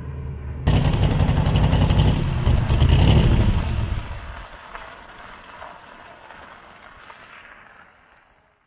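A Cobra roadster's V8 engine running: a steady drone that jumps suddenly, about half a second in, to a loud, rough exhaust rumble. The rumble then dies away to nothing over the last four seconds.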